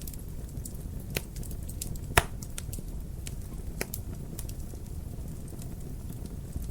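Wood fire crackling in a fireplace: a steady low rumble of flame with scattered sharp snaps, and one loud pop about two seconds in.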